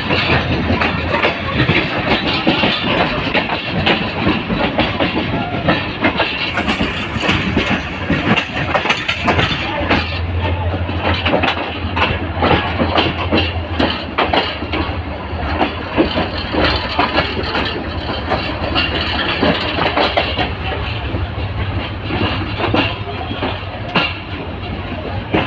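Moving passenger train heard from an open coach window: steady running noise with the rapid irregular clatter of coach wheels over the rails, and a low hum coming and going.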